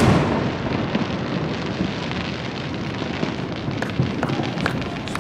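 Fireworks crackling and rumbling, fading away after a loud burst of shells, with scattered sharp pops in the second half.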